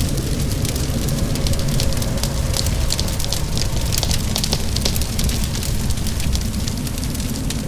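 Wood fire crackling, with many quick sharp pops and snaps, over a steady low rush of rain.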